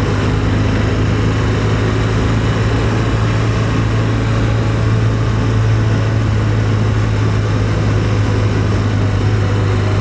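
Motorcycle engine running steadily at an even cruising speed, a constant low drone with a haze of road and wind noise over it.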